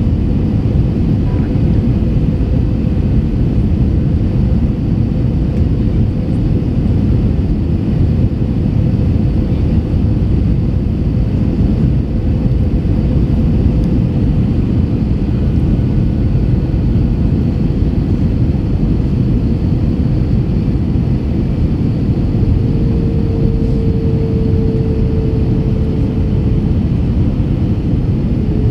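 Airbus A321 in flight, heard from inside the cabin at a window: a steady roar of engines and airflow, with a faint steady hum that grows a little louder for a few seconds near the end.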